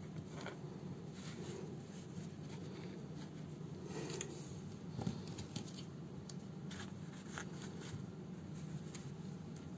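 Soft rustles and light clicks of hand-sewing work on a fabric house slipper, with a slightly sharper click about five seconds in, over a steady low hum.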